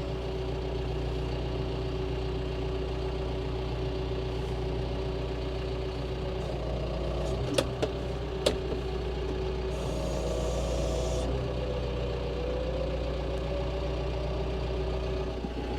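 John Deere tractor engine running steadily, with two sharp clicks in the middle about a second apart and a faint whine rising and falling around them.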